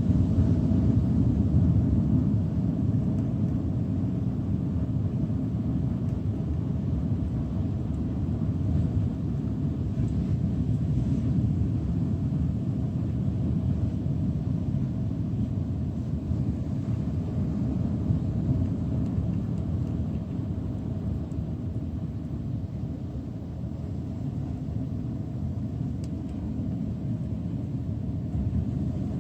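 Steady low rumbling noise with a faint steady hum, no distinct events.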